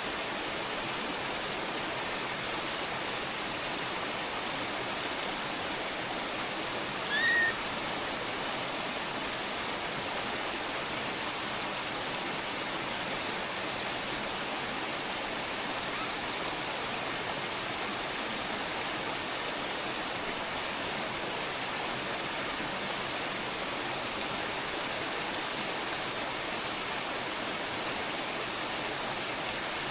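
Steady rushing hiss, like running water, throughout, with one short, sharp bird chirp about seven seconds in.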